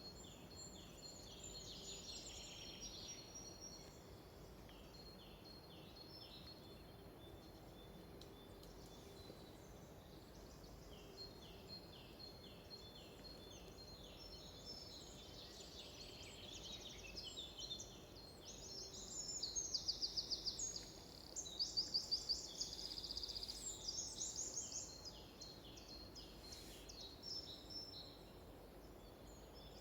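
Several wild birds singing and calling: many short, high falling chirps throughout, with two louder rapid trills about two-thirds of the way through, over a faint background hush.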